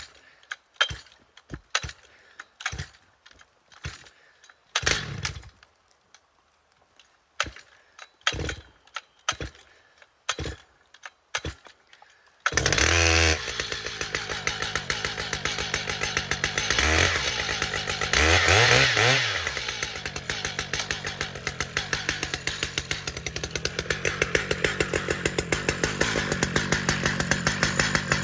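A run of short, sharp sounds, then about halfway through a Stihl MS881 chainsaw starts abruptly and runs, revving up and down twice before settling into a steady run.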